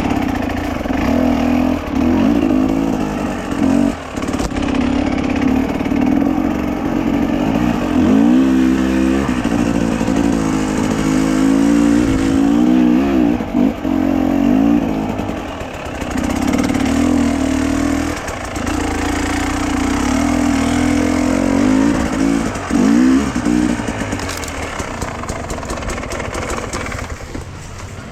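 A vehicle's engine running while driving, its pitch rising and falling several times as it speeds up and slows.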